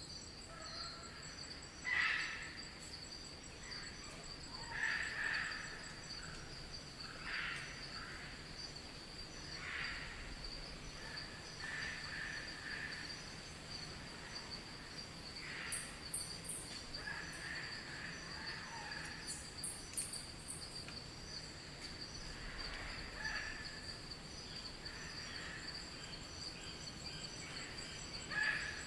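Wild eclectus parrots squawking, one short call every two to three seconds, over a steady high-pitched insect drone in rainforest.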